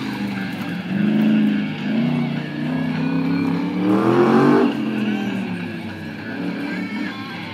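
Drift car's engine revving in repeated rising and falling surges as it slides around the course, the longest climbing to a peak about four and a half seconds in, then easing off.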